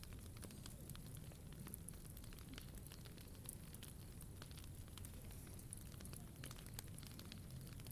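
Wood fire burning in a POMOLY T-BRICK Ultra, crackling with many small, irregular pops over a low steady rumble.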